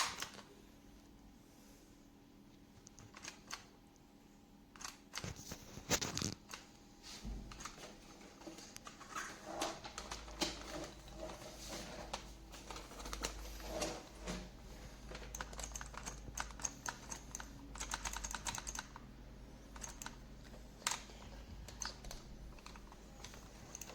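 Quiet, scattered light clicks and taps of small hard objects being handled, with a faint low hum starting about seven seconds in.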